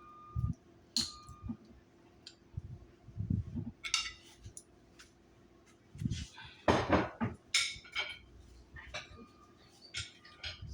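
Dishes and serving utensils clinking and knocking as food is served onto plates, in scattered short clicks, with one louder, longer scraping rustle about seven seconds in.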